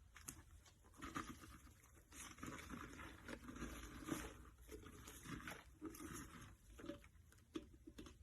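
Sponge soaked in a foamy mix of cleanser and detergent being squeezed by hand: soft wet squelching and crackling of suds in irregular bursts, faint overall.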